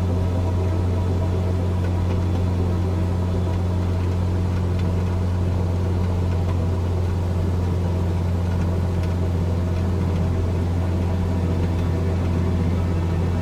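Cessna 172's piston engine and propeller running at steady cruise power, a constant low drone that holds one pitch throughout.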